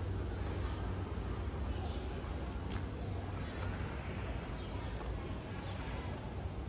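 Background ambience: a steady low hum with faint distant voices, short high falling chirps about once a second, and a single sharp click a little under three seconds in.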